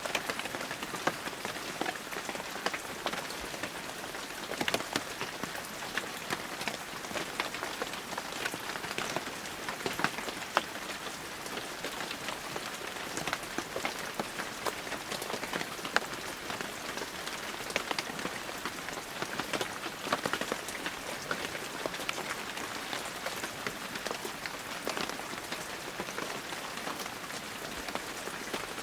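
Heavy rain falling steadily, an even hiss with many separate drops ticking and pattering on surfaces.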